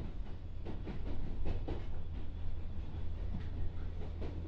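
Inside a JR 201 series electric motor car running along the line: a steady low rumble, with wheels clacking over rail joints at uneven intervals.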